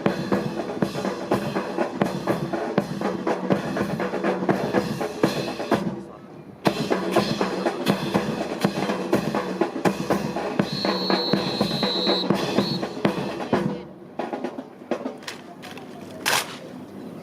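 Marching drums, snare and bass drum, playing a steady rhythmic cadence for a rifle fancy drill. The drumming breaks off briefly about six seconds in, then stops near the end, leaving scattered sharp clicks and taps.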